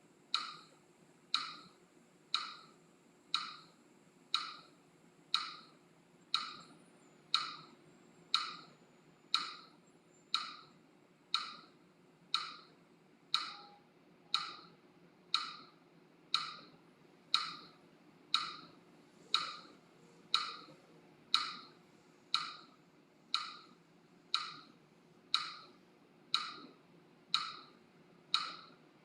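Metronome clicking steadily about once a second, a short woodblock-like tick each time, setting the pace for a round of breathing practice.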